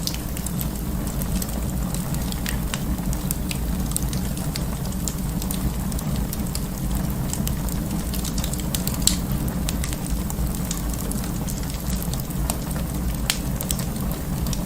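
Wood fire in an open fireplace crackling: a steady low rumble of the flames with scattered sharp pops, one louder pop about nine seconds in.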